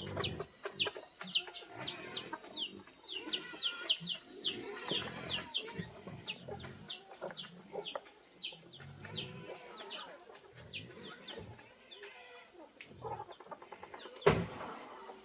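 Chickens clucking, with many short high peeping calls, several a second, that thin out toward the end. A single loud knock comes near the end.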